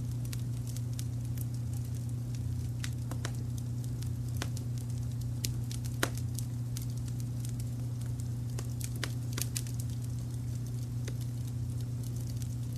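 Wood fire crackling with frequent irregular pops and snaps, one sharper pop about six seconds in, over a steady low rumble of brown noise.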